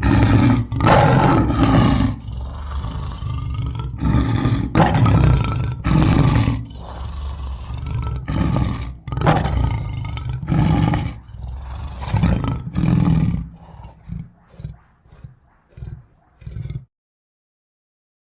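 Custom creature sound effect for a sea rhinoceros: a string of loud, deep roars one after another. Near the end they give way to short, quieter grunts and then cut off abruptly.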